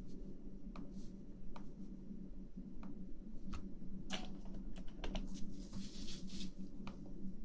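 Close-miked rustling: scattered soft clicks and taps, with a few longer scratchy rustles about four to six seconds in, over a steady low hum.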